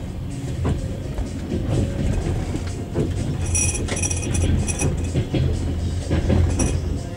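Passenger train carriage heard from inside while pulling out of a station: a steady low rumble of wheels on the track with irregular knocks over the rails. Short high-pitched metallic sounds come about halfway through and again near the end.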